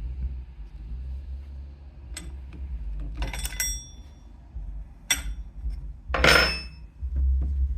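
Metal tools and engine parts clinking and knocking: a few sharp clinks with a short metallic ring, then a longer, louder clatter near the end, over a low rumble.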